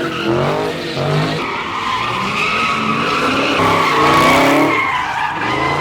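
A car sliding through a drift, its tyres squealing continuously while the engine revs up and down at high rpm.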